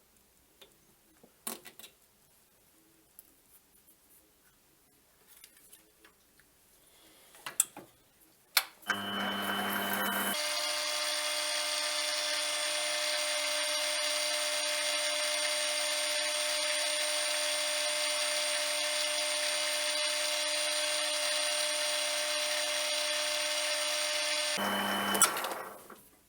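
A few clicks and knocks of handling, then a lathe motor starts about a third of the way in. It settles to a steady run with a high whine and stops near the end.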